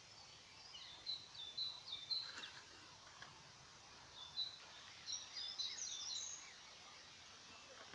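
Small birds chirping in short bursts of high notes, in clusters about a second in and again around five to six seconds in, over a faint steady background hiss.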